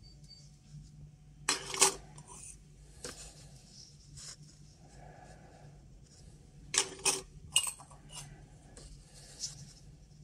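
Small metal objects clinking and knocking against a hard surface: a cluster of sharp clicks with a short ring about a second and a half in, and another around seven seconds in, with a few lighter ticks between.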